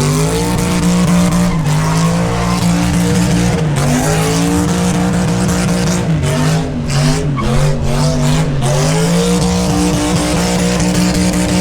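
A V8 engine held at high revs during a burnout, with the spinning tyres squealing and hissing against the pavement. The engine's pitch sags and climbs back several times as the throttle is worked.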